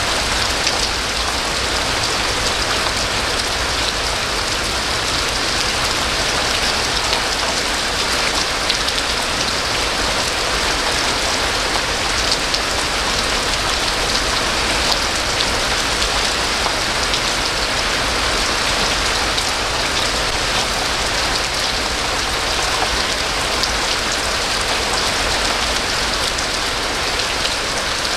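Steady heavy rain falling and pattering on surfaces, a dense even hiss with many small drop ticks.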